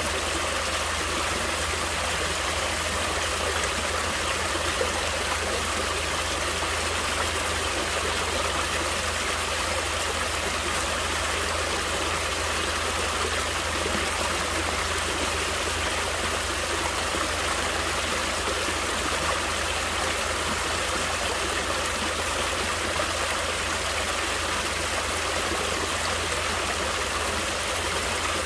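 Water flowing steadily in a stream: a constant, even rush with no breaks or changes.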